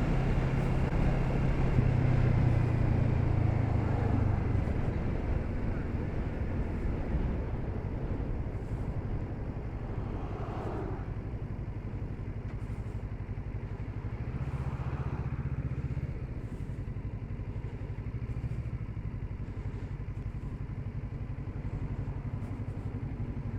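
Kawasaki Z650RS parallel-twin motorcycle engine running steadily, louder for the first few seconds, then settling lower, with a brief rise in engine note about two-thirds of the way through.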